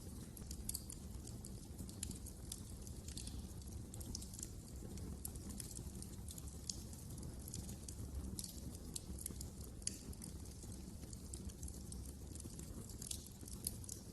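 Fireplace fire crackling: irregular sharp snaps and pops over a low, steady rumble.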